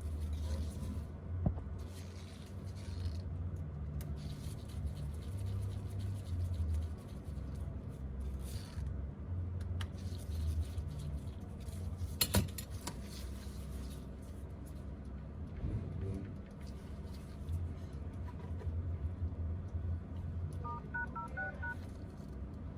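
A low, uneven hum with a couple of sharp clicks, and near the end a quick run of phone keypad dialing tones, short paired beeps typical of DTMF dialing on a smartphone.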